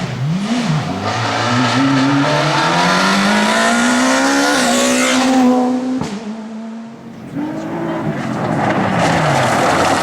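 Rally car engine revving in quick rises and falls, then pulling hard in one long climb in pitch. The note cuts off sharply about six seconds in, and after a short dip an engine note falls steadily as a car goes by.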